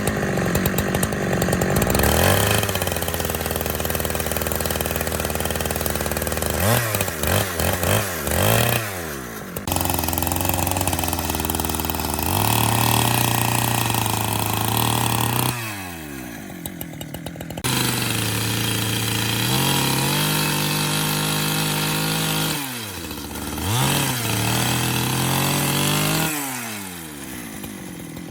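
Two-stroke chainsaw running at high revs, cutting wood, with the throttle let off and opened again several times so that the engine note falls and climbs back.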